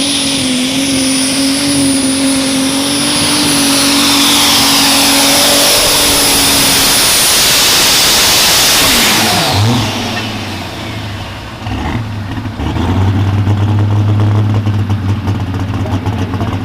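Light super stock pulling tractor's turbocharged diesel engine running hard at full throttle, with a high steady whine over it. About nine and a half seconds in, the throttle comes off and the pitch falls away, then the engine settles to a lower, steadier note.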